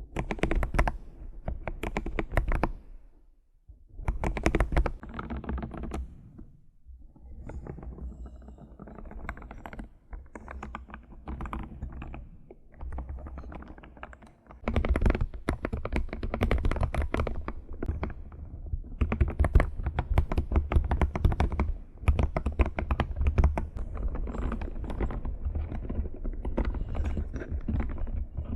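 Computer keyboard being typed on in fast runs of key clicks. It pauses briefly about three seconds in, goes softer for a stretch in the middle, then turns louder and busier for the second half.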